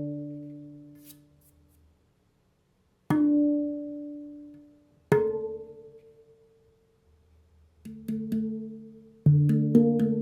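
Homemade first-attempt handpan, a steel tongueless pan, struck by hand: notes ring out and slowly fade, with single notes about three and five seconds in, then a quicker run of strikes near the end. The builder says it doesn't sound awesome yet.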